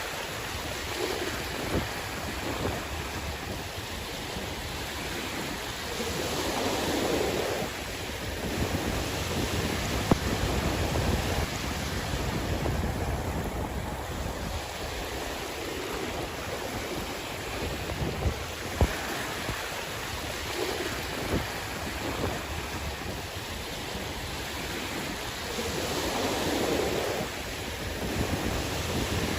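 Sea waves washing onto the shore in a continuous wash, swelling louder about six seconds in and again near the end, with wind rumbling on the microphone.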